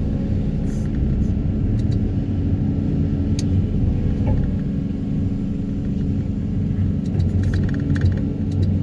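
Heavy excavator working a vibro hammer for sheet-pile extraction: a steady, loud, low machine rumble with a constant hum, and a faint tick about three and a half seconds in.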